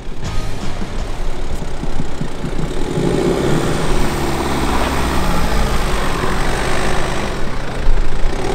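BMW crossover SUV's engine running at low speed with a steady low rumble, as the car works its way over an off-road course.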